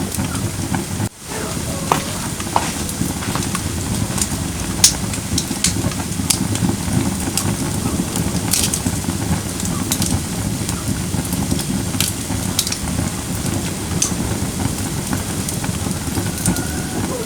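Firewood burning in a fire pit: a steady low rush of flames with sharp crackles and pops scattered throughout. The sound dips out briefly about a second in.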